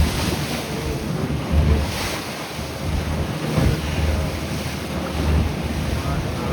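Wind buffeting the microphone in uneven gusts, over the wash of waves around a fishing boat at sea.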